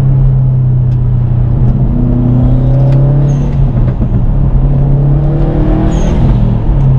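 Subaru WRX STI's turbocharged flat-four engine pulling under load, heard from inside the cabin with the window open, its note rising twice. Two brief high whistles come about three and six seconds in.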